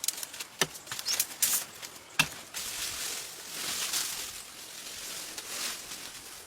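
A few sharp wooden knocks, then a long rasping hiss that swells and fades: a hand saw cutting through timber.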